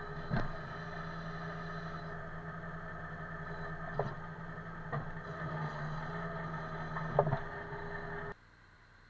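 An engine running steadily at an even speed, with a few sharp knocks or clunks over it. The sound cuts off suddenly near the end.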